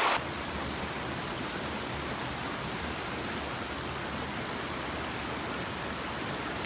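Steady rush of flowing water, an even hiss with no change.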